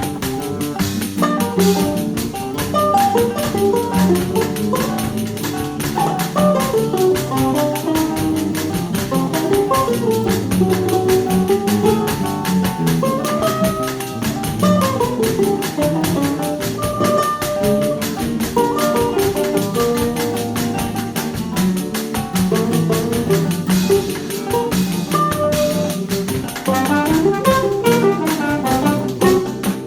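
Choro ensemble playing an instrumental piece: a wandering lead melody over plucked-string accompaniment and a steady, busy tambourine rhythm.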